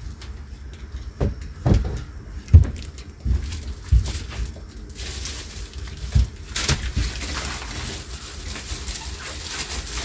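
A string of dull thumps and knocks, like footsteps and handling in a camper trailer, the loudest about two and a half seconds in; from about halfway a steady hiss sets in.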